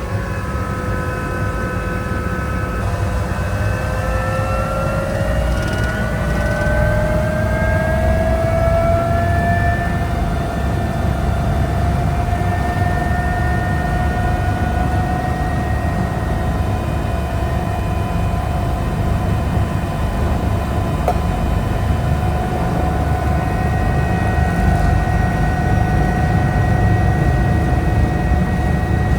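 Eurocopter EC145 helicopter in flight: a steady low rotor and engine rumble with a turbine whine over it. The whine rises in pitch from about three seconds in to about nine seconds in, then holds steady.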